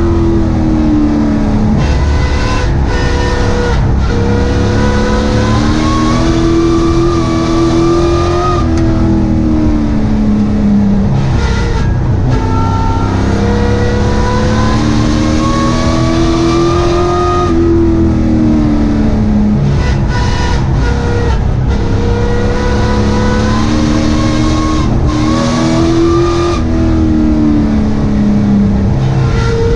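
Race truck's engine heard from inside the cab, climbing in pitch as it accelerates and dropping as the driver lifts, about every eight seconds, over and over as the laps go by.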